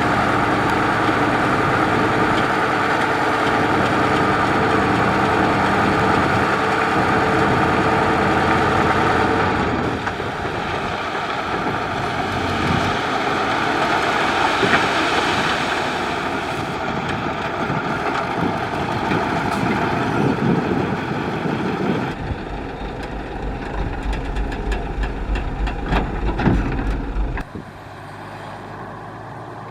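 Heavy diesel construction machine engine running, steady at first and then noisier, with a deep low rumble for several seconds before the level drops suddenly near the end.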